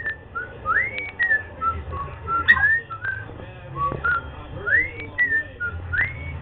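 Cockatiel whistling a tune: a repeated phrase of short notes with rising swoops, with a few sharp clicks between notes.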